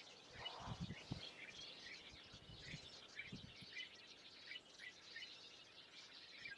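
Faint chorus of small birds chirping and singing, many short overlapping calls, with a few soft low thumps about a second in and again near the middle.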